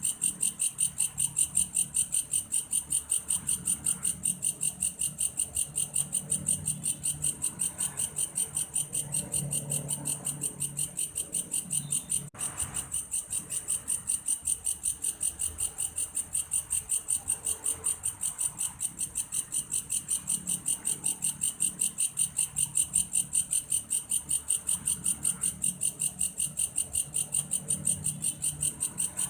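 A belalang kayu (wood grasshopper) stridulating: a steady, high-pitched, cricket-like chirring made of fast, evenly spaced pulses that never stops.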